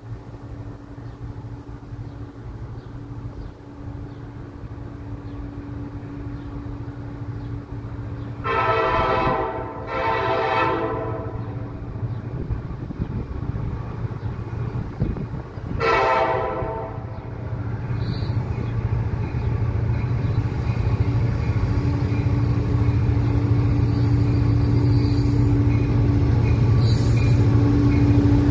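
Diesel freight locomotive's air horn sounding three blasts, two back to back about a third of the way in and a third a few seconds later, over the rumble of the approaching CSX freight train. The rumble grows steadily louder as the train nears.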